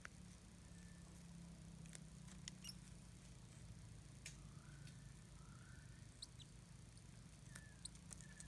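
Near silence: a faint low hum with scattered faint clicks and a few brief high chirps.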